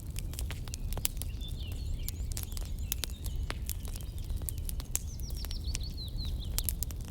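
Campfire crackling with frequent sharp pops over a low steady rumble, while a small bird chirps a run of quick high notes from about a second and a half in until shortly before the end.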